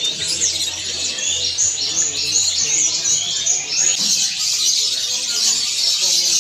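Many caged songbirds chirping and twittering at once, a dense, unbroken chorus of short high chirps.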